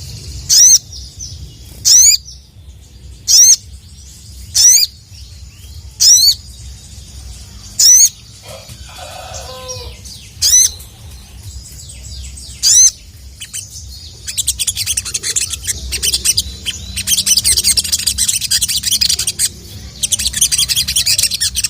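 Crimson sunbird (sogon) calling: a series of loud, sharp, high-pitched chirps one to two seconds apart. About two-thirds of the way in it turns to a dense, rapid twittering chatter.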